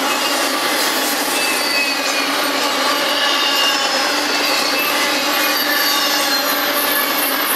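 Double-stack intermodal freight train's well cars rolling past, a loud, steady rush of wheels on rail with faint high squealing tones drifting in and out.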